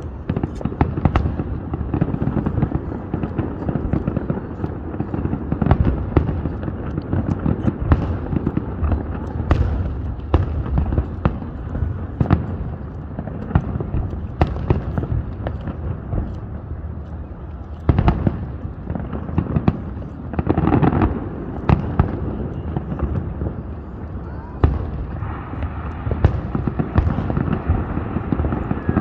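Aerial fireworks bursting in quick, irregular succession: many sharp bangs layered over a continuous low rumble of booms.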